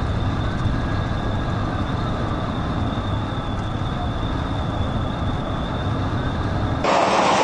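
Steady road and engine noise of a police car driving at high speed. About seven seconds in it changes abruptly to a louder, harsher rush of noise.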